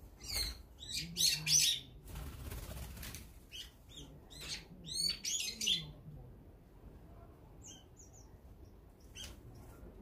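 Wild birds at a backyard feeder giving loud, harsh, curving calls in two bunches over the first six seconds. After that only a few faint chirps are heard.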